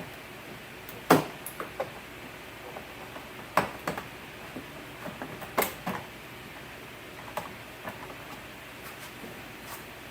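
Retaining clips of a 2003 Chevrolet Impala door trim panel snapping loose one after another as the panel is pried off. The loudest snaps come about a second in, about three and a half seconds in and about five and a half seconds in, with smaller clicks between.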